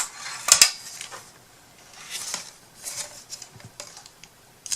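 Small hard objects clicking and clattering as craft items are handled on a table, with a couple of sharp knocks in the first second and softer rustling and tapping after.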